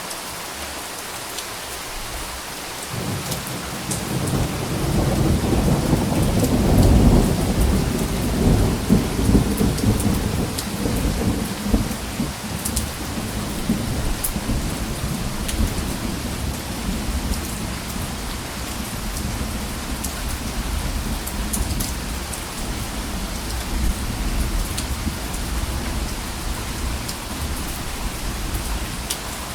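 Steady rain falling, with scattered drop ticks, and a roll of thunder that builds a few seconds in, peaks soon after, then rumbles on and slowly fades.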